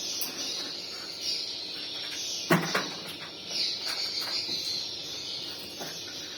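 Swiftlet calls played through a swiftlet-house amplifier's speakers: a continuous high twittering of chirps. A single sharp knock about two and a half seconds in is the loudest sound.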